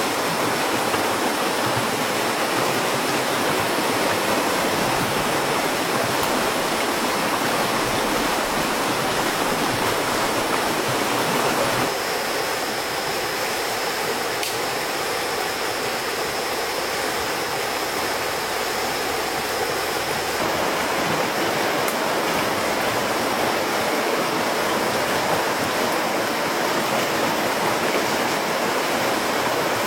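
Steady rushing of flowing stream water, with a thin, steady high tone running above it. The sound shifts slightly about twelve seconds in.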